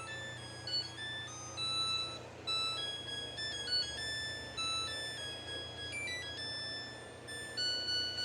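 Samsung washing machine playing its electronic end-of-cycle melody: a simple tune of clean beeping notes stepping from one pitch to the next, over a faint steady low hum.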